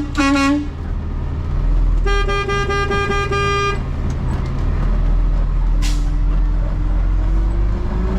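Garbage truck horn: a short toot right at the start, then a steady blast of nearly two seconds about two seconds in, over the truck's steady low running drone. Near the end a faint tone slowly rises in pitch.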